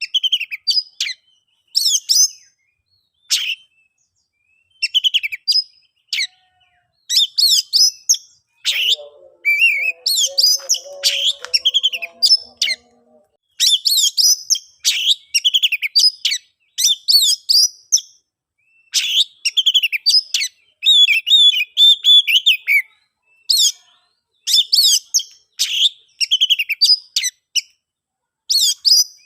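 Oriental magpie-robin (kacer) singing: loud, varied whistled phrases and trills in quick succession, each broken off by a brief pause. About nine seconds in, a lower warbling sound runs under the song for a few seconds.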